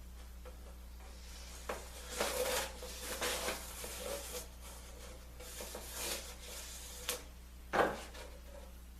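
Hand work on a woodworking bench: scuffing and rubbing of wood parts, a few light clicks, and one sharp knock near the end, over a steady low hum.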